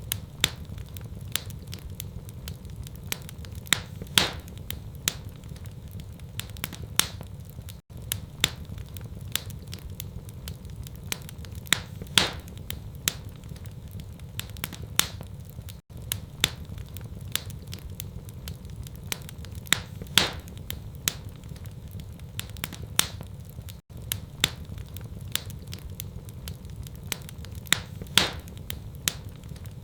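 Wood fire crackling in a fireplace: irregular sharp pops and snaps over a steady low rumble. The same stretch of crackling repeats about every eight seconds, with a brief dropout at each seam of the loop.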